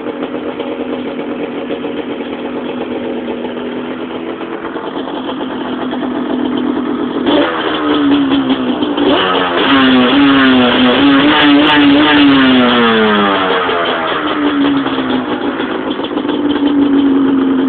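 Yamaha Banshee's 350cc twin-cylinder two-stroke engine, fitted with an FMF exhaust, idling steadily, then revved up and down several times from about seven seconds in before settling back to idle near the end.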